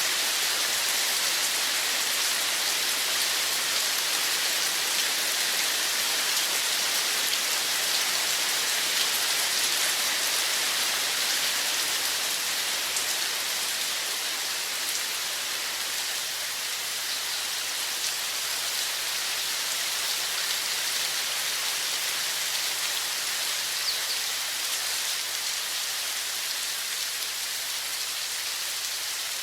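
Running water, a steady even hiss with no breaks.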